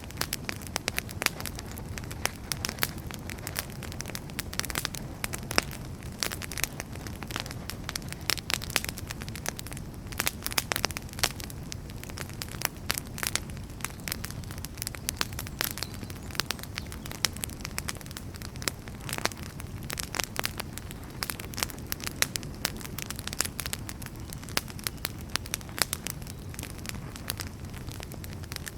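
Wood fire burning steadily, with a low rumble of flames under frequent sharp crackles and pops from the burning firewood.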